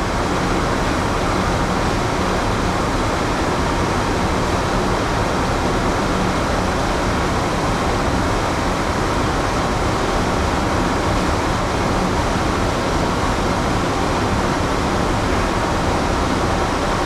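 Steady drone of a moored ship's ventilation and onboard machinery heard inside the passenger spaces: an even rushing noise with a faint low hum, unchanging throughout.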